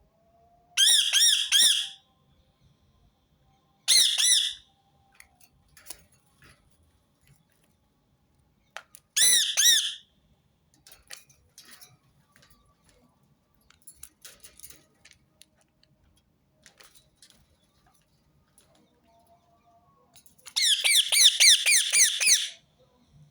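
Rose-ringed parakeet giving loud, high-pitched, rapidly repeated screeching calls in four bouts: three short ones of about a second each, then a longer run of about two seconds near the end. Faint clicks and scratches come between the bouts.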